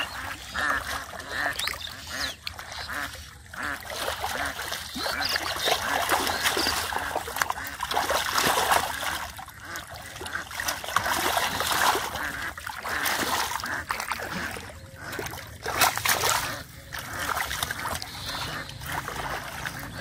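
Ducks quacking beside splashing and sloshing of muddy water from hand fishing, with the splashing loudest through the middle.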